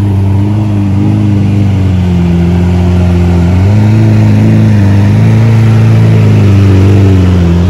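Ferrari 488's twin-turbo V8 idling steadily close by, its pitch settling slightly lower and then rising again about three and a half seconds in.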